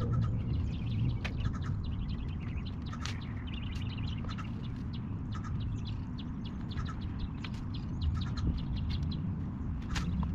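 Small birds chirping in many short calls, over a steady low rumble.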